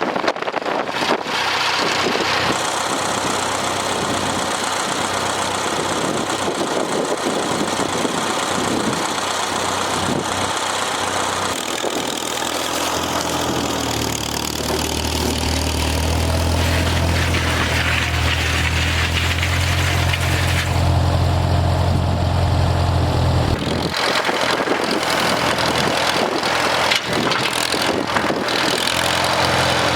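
Farmall M tractor engine running, mixed with wind buffeting the microphone. A heavy low rumble swells about midway and cuts off sharply a few seconds later.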